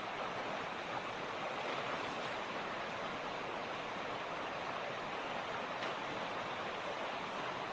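Mountain creek water rushing and splashing over stones in a steady, even stream.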